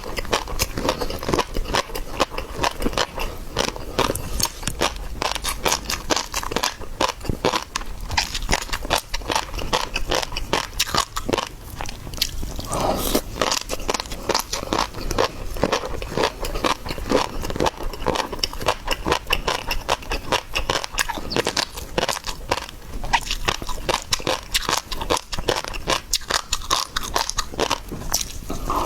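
Close-up sound of someone eating seafood: biting and chewing, with dense, rapid crunching and crackling clicks.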